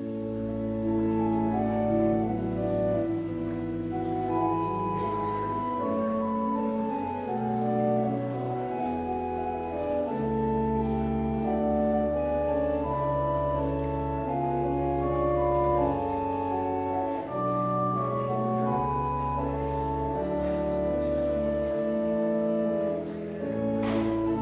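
Church organ playing the postlude at the end of the service: full held chords over a slow-moving bass line, starting suddenly at the beginning.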